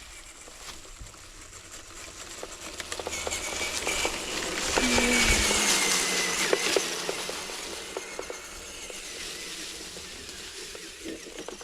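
Small electric motor of an RC scale crawler truck whining steadily while its tyres crackle over dry leaves and twigs. It grows louder toward the middle, where the whine dips a little in pitch, then fades.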